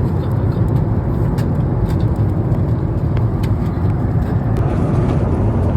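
Steady low rumble of vehicle cabin noise, with a few faint ticks.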